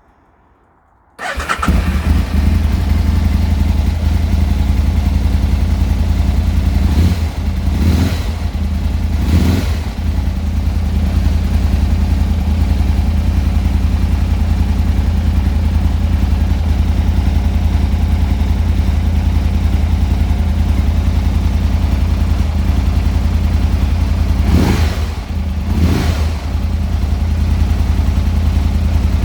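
Aprilia Tuono 1000 R's 1000cc V-twin engine starting about a second in, then idling steadily. The throttle is blipped three times in quick succession about seven seconds in, and twice more near the end.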